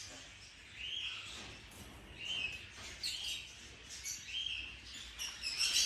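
Faint chirps of aviary birds: a few short, high calls spaced about a second apart, with a little more calling near the end.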